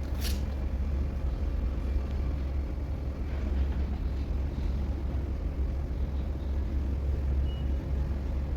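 Steady low engine rumble, with a short sharp hiss about a quarter second in.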